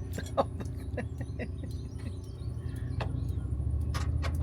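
Irregular light clicks of hand tools being handled and fitted, over a steady low hum that grows a little louder after about three seconds.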